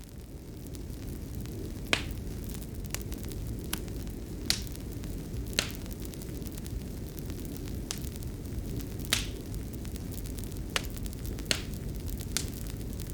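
Wood fire crackling in a fireplace: a steady low rumble of burning with sharp, irregular pops about once a second.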